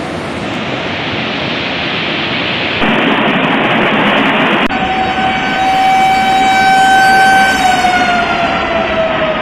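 Rushing floodwater noise, then a loud siren-like tone that holds steady and slides downward in pitch near the end, as a siren does when winding down.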